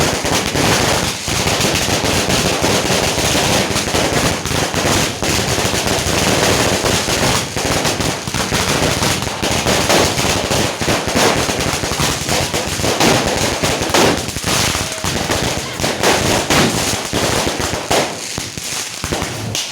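Firecrackers going off in a dense, continuous barrage of rapid crackling pops, easing a little near the end.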